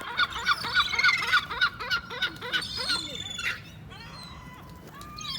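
Gulls calling, a rapid run of short repeated cries, about three or four a second, that thin out after about three and a half seconds.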